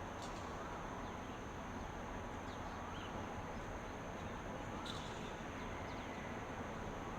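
Steady outdoor ambient hiss with a continuous high-pitched insect drone, a few faint bird chirps, and two brief clicks: one just after the start and one about five seconds in.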